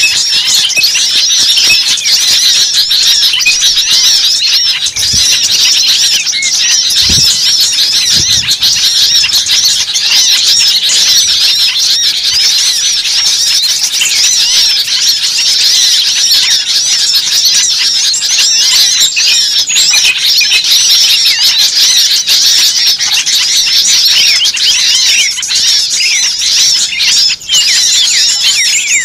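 Dense, continuous chorus of many small songbirds chattering and chirping rapidly and without pause, as in a noisy bird-lure recording made to draw small birds in.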